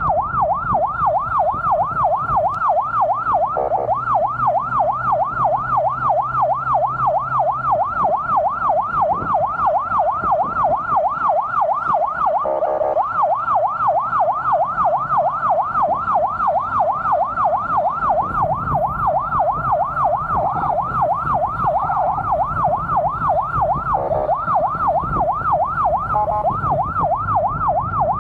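Emergency vehicle siren on yelp, a fast continuous rising-and-falling wail several times a second, with a few short horn blasts, over engine and road noise while escorting an ambulance.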